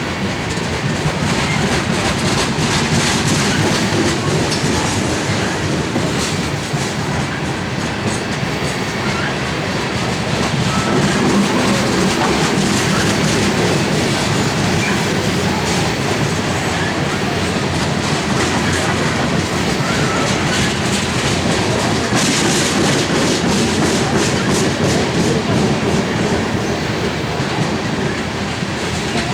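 Loaded coal train's steel-wheeled hopper cars rolling past close by, a steady rumble with rapid clickety-clack of wheels over rail joints.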